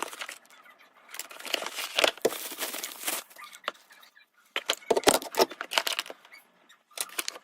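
Product packaging being opened and handled by hand: irregular rustling and crinkling with small clicks and knocks, in bursts.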